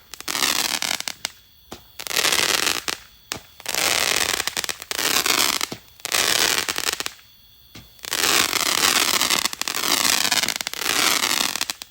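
Consumer fireworks going off in a run of crackling bursts, each about a second long, with short gaps between them.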